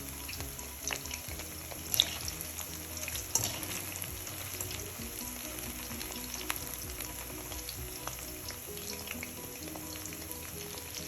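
Soya chunks (meal maker) deep-frying in hot oil: a steady sizzle with scattered pops and crackles, a sharp crack about two seconds in. The chunks are frying crisp and turning reddish-brown, nearly done.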